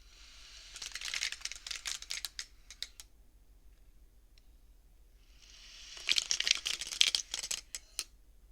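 Beads of a bead abacus (counting frame) pushed along their rods, sliding and clacking together in quick clicks. Two bursts of a few seconds each, with a pause between.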